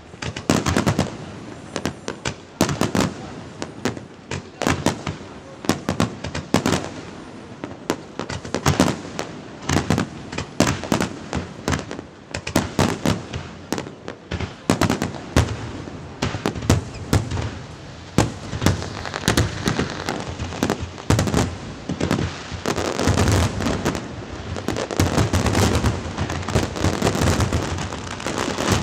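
Aerial fireworks display: shells bursting in quick, irregular succession, many bangs overlapping, building to a dense continuous crackling barrage over the last few seconds.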